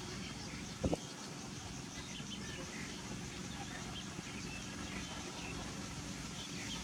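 Outdoor ambience: a steady low hum with many small high chirps scattered through it, and one brief knock about a second in.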